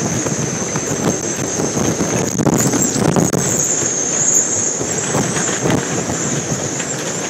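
Hurricane-force wind blowing hard and buffeting the microphone, a dense crackling rush with a high steady whistling hiss over it, gusting stronger a few seconds in.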